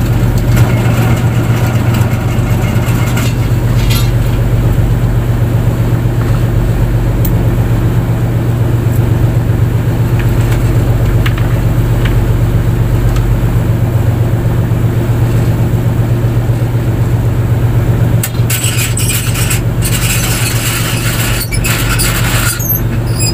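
Fishing boat's engine running steadily with a constant low hum. Several seconds of hissing noise join it near the end.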